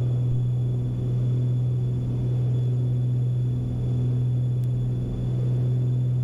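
Twin piston engines and propellers of a Beechcraft Baron B55 in the climb, a steady low drone that swells and eases gently every second or two.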